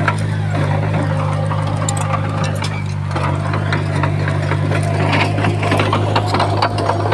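Heavy diesel earthmoving machinery running steadily: a deep, even engine drone with many small clanks and rattles over it.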